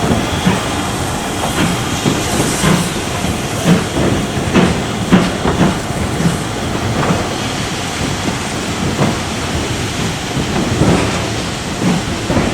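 Steam train running: a steady hiss of steam with an irregular string of knocks and clanks.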